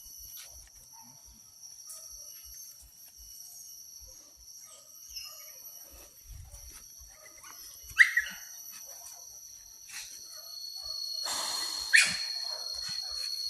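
A hunting dog barks twice, short and sharp, about 8 and 12 seconds in. Under it runs a steady high-pitched insect drone, with a brief rustle of brush just before the second bark.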